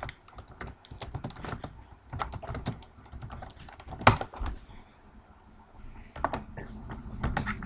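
Typing on a computer keyboard: a run of quick, uneven key clicks, with one louder clack about four seconds in and a short lull about a second later before the typing picks up again.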